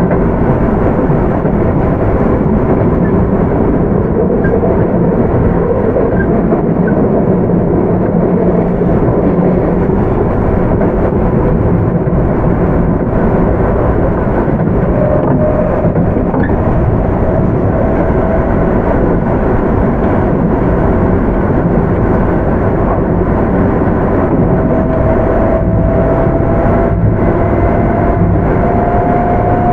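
Onboard running sound of a Keio 8000 series electric train with Hitachi GTO-VVVF control: a loud, steady rumble of the car running on the rails. From about halfway through, a faint whine rises slowly in pitch.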